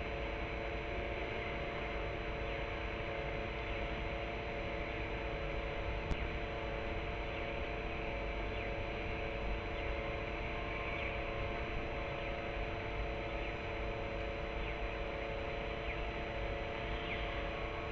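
Steady electrical hum of several fixed tones over a constant hiss and low rumble, with one sharp click about six seconds in.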